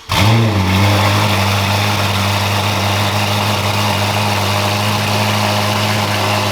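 Ferrari F8's twin-turbo V8 starting up through a full titanium Boden exhaust. It catches suddenly with a brief rev flare, then settles within a second into a loud, steady idle.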